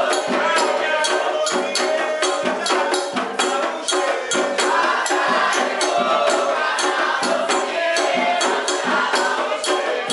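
Candomblé ritual music: a group singing over fast, steady hand percussion with rattling and clacking strokes.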